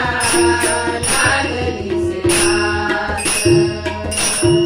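Marathi bhajan accompaniment: a harmonium holding chords, with tabla strokes and small hand cymbals (taal) striking on a steady beat.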